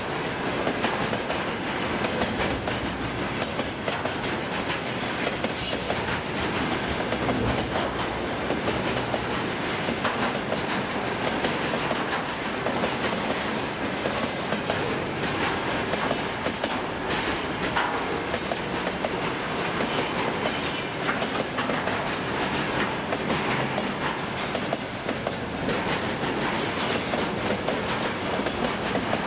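Freight train rolling past: a steady rumble of wagon wheels on the rails with scattered clicks over rail joints.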